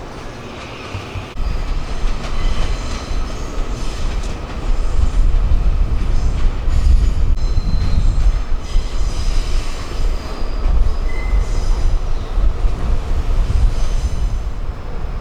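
A train moving on the rails with a heavy low rumble, and thin high-pitched wheel squeals that come and go.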